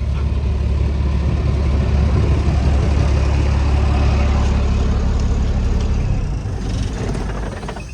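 Freightliner semi truck's diesel engine idling steadily, then winding down as it is switched off near the end.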